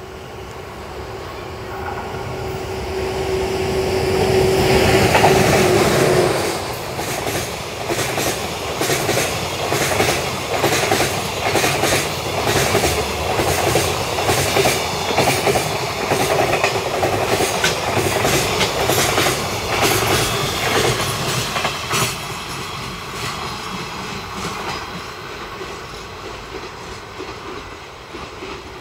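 An EH200 electric locomotive hauling a container freight train passes at speed. A steady tone from the locomotive grows louder as it approaches and stops as it passes about six seconds in. The container wagons' wheels then clatter rhythmically over the rail joints, and the clatter fades as the train moves away after about 22 seconds.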